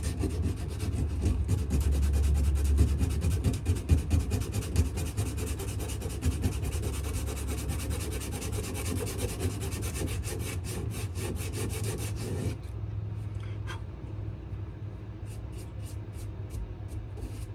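Abrasive paper rubbed by hand back and forth on a wenge and maple knife handle, in quick rasping strokes that stop about 12 seconds in, followed by a few lighter, scattered strokes near the end. A steady low hum runs underneath.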